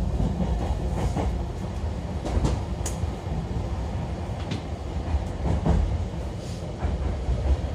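Running noise inside a JR Kyushu 813 series electric train's motor car: a steady low rumble of wheels on rail with a few faint rail-joint knocks and a brief high squeak about three seconds in.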